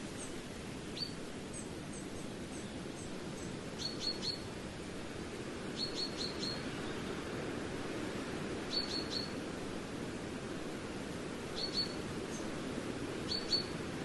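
Small bird chirping in quick clusters of three or four short, high, falling notes, repeated every two to three seconds over a steady low rushing noise.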